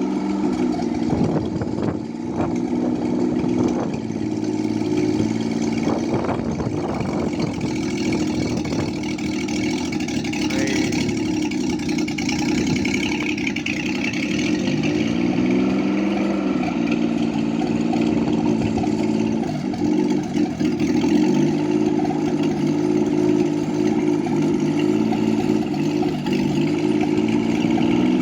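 Engine of a homemade helicopter running continuously, its pitch dipping and rising a few times as the speed changes, with a few sharp knocks in the first seconds.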